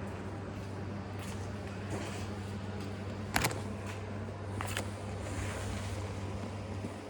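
A steady low hum, with two sharp clicks about a second and a half apart midway, the first louder.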